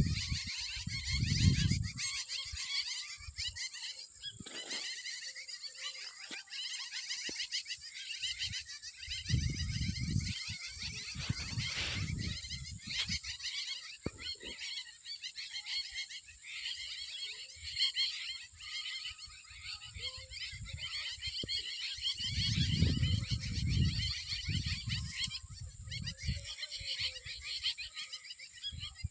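Dense evening chorus of insects, a steady, rapidly pulsing high chirring, with birds calling through it. Low rumbles of wind on the microphone come and go, about a second in, around ten seconds in and again near twenty-three seconds.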